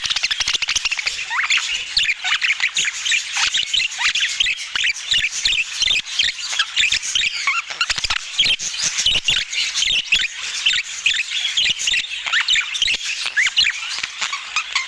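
Budgerigars chattering: a dense, continuous stream of rapid high chirps, warbles and squawks, overlapping as from several birds at once.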